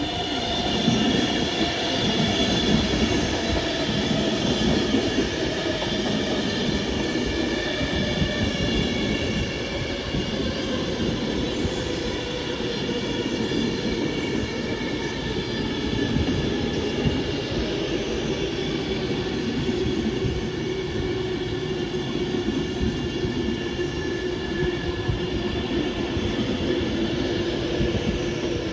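A train running past on the rails, a long continuous rumble of wheels with steady whining tones, one of which slowly falls in pitch.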